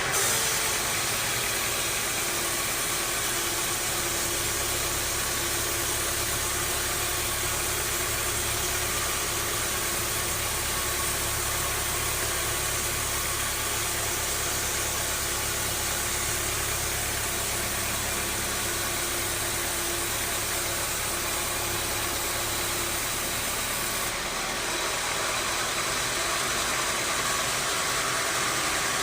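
Band sawmill machinery running steadily: a continuous motor noise with a low hum and a faint steady tone. Near the end the high hiss drops away and the low hum weakens.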